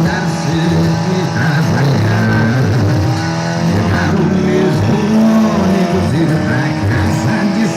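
Car engine revving hard with tyres squealing in a burnout, with music playing underneath.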